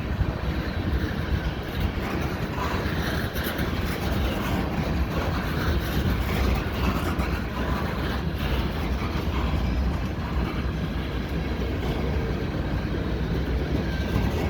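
Short diesel-hauled CN freight train rolling past at close range: a steady rumble of wheels on rail with faint clicks, holding level throughout.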